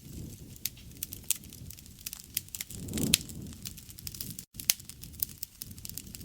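Wood fire crackling, with irregular sharp pops over a low rumble of burning. The rumble swells about three seconds in, and the sound cuts out for a split second about halfway through.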